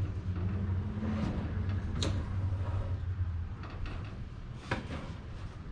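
Knocks and clunks of heavy items being handled and set down, over a low steady rumble that fades out a little past halfway.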